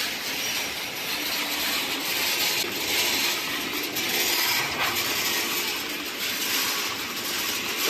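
Steady hissing machinery noise of a dry pet food production line running, with no single event standing out.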